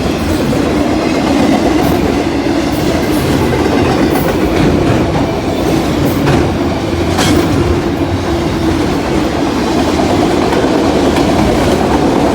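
CSX freight train cars rolling past with a steady rumble of wheels on rail, and a few sharp wheel clicks over rail joints in the middle.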